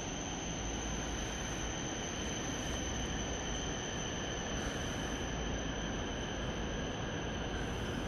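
ET127 series electric train approaching the station platform at low speed, a steady even running noise with no sharp sounds.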